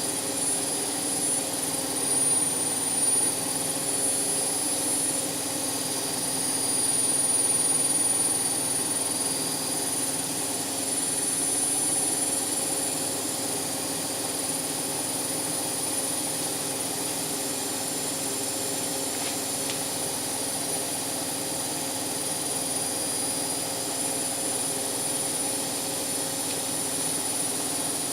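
Indesit washing machine drum spinning at high speed, a steady mechanical hum with a constant high-pitched whine, near the end of a cotton cycle where the final spin comes.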